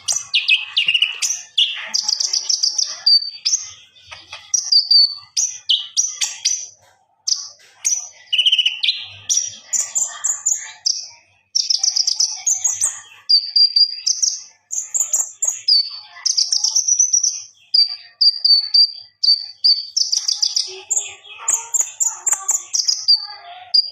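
A konin songbird in full, vigorous song: a near-continuous run of loud, high chirping and whistled phrases, many with quick rising or falling slides, broken only by short pauses.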